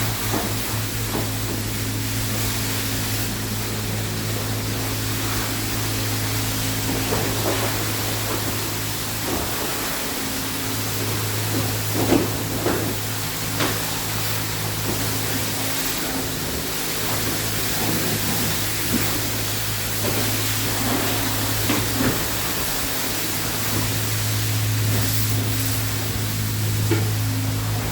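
Self-serve car wash's high-pressure wand spraying water in a steady hiss, over a steady low hum from the wash equipment.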